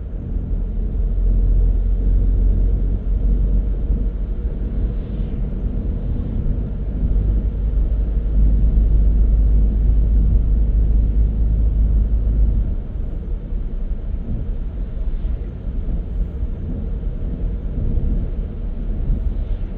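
Car driving on the road: a steady low rumble of tyres and engine, with the deepest part of the rumble dropping away about two-thirds of the way through.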